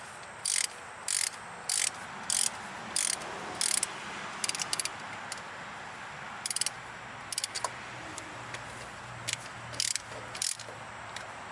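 Hand ratchet wrench clicking as bolts are snugged down: short ratcheting bursts on each back-swing, regular about every half-second for the first few seconds, then shorter irregular bursts.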